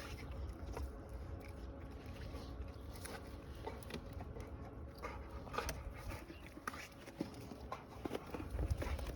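A dog working at something with its mouth, biting and tugging, heard as scattered rustles and short knocks over a steady low rumble.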